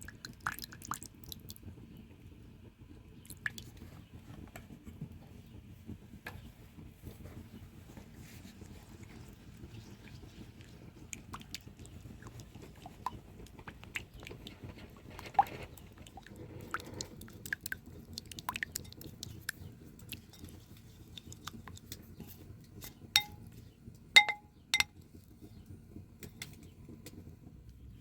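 Scattered light clicks, knocks and rustles of hands handling things, with three sharp ringing clinks near the end, over a low steady background rumble.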